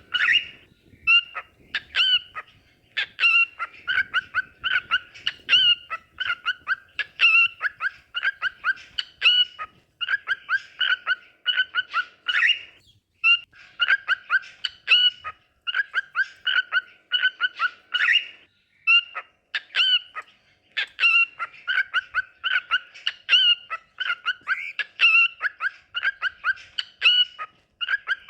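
Cockatiel song: phrases of rapid whistled chirps, repeated over and over with short breaks between phrases.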